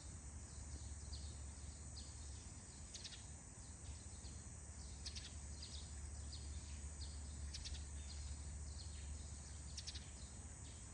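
Forest ambience: small birds chirping with many short falling calls, over a steady high insect drone and a low steady rumble.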